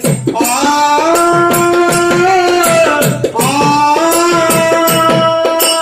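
Devotional bhajan music: a held, slowly gliding melody line over a fast, even beat of hand percussion and small jingling cymbals, about four to five strokes a second.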